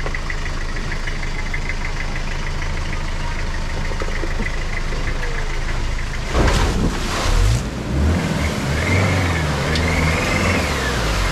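Four-wheel-drive vehicle's engine idling steadily, then revving up and down under load from about six seconds in, with a couple of loud rushing bursts as it goes.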